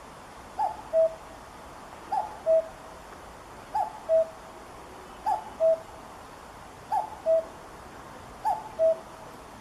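Common cuckoo calling its two-note "cu-coo", the second note lower and louder, six times at an even pace of about one call every one and a half seconds, over a steady background hiss.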